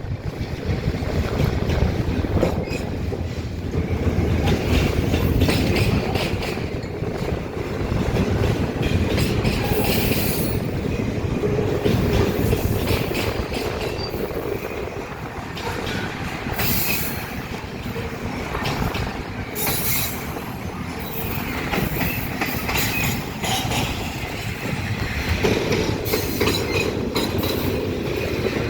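Ferromex intermodal freight train rolling past at speed: a steady heavy rumble of cars and wheels clattering over the rails, with a few brief high wheel squeals along the way.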